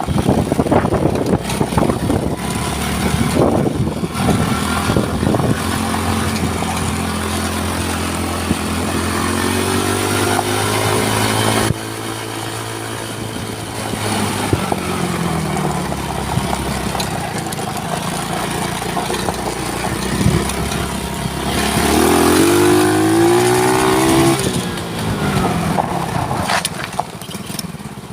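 Quad bike engine running as the bike is ridden, its pitch rising and falling with the throttle: it climbs, cuts off abruptly about twelve seconds in, and climbs again a little past twenty seconds before easing off.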